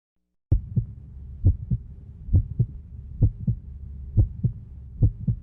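Human heartbeat, lub-dub, beating steadily about once a second: six paired low thumps over a low steady hum, starting suddenly about half a second in.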